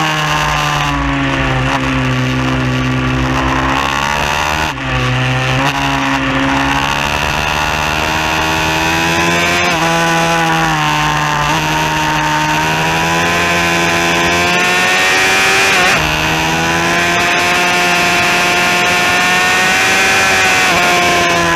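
Bucci F15R pit bike engine heard on board while riding, its revs repeatedly rising and falling as the throttle is opened and closed, with a brief dip about five seconds in.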